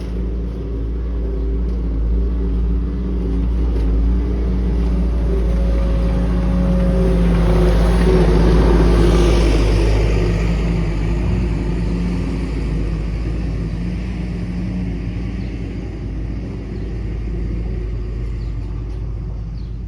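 Engine of a 1968 Chevrolet K20 pickup running steadily. It grows louder about eight seconds in, then eases back down.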